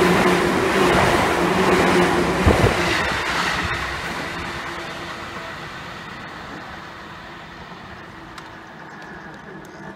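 Seibu Railway N2000-series electric train running past close by, with a steady low hum and a single low thump about two and a half seconds in. The running noise then fades steadily as the train pulls away.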